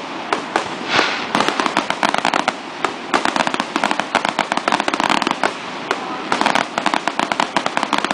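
Fireworks display going off in a rapid, unbroken barrage: dense crackling and many sharp bangs every second from shells bursting overhead and near the ground.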